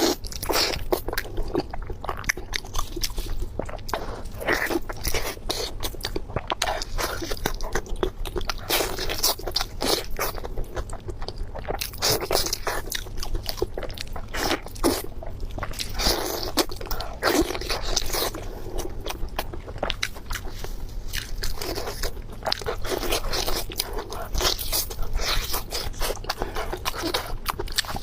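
Close-miked chewing of crunchy food, with dense crisp crunches one after another throughout.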